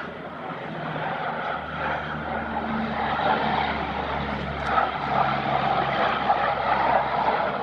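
Four-engine turboprop of an MC-130 Combat Talon flying a low pickup pass, its propeller drone growing steadily louder as it approaches.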